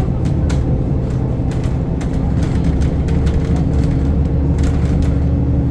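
Inside a moving bus: steady low engine and road rumble with a constant hum and faint rattles of the cabin.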